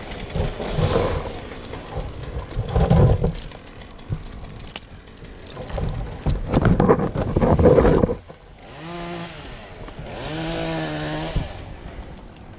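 Chainsaw running in several loud bursts, then revving with a wavering pitch in two spells near the end.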